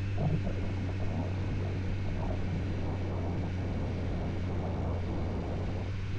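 Motorcycle engine running at steady revs, a constant low drone, over a steady rush of wind and road noise.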